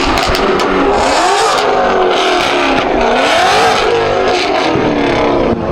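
Car engine revving hard, its pitch rising and falling several times, over a steady rushing noise.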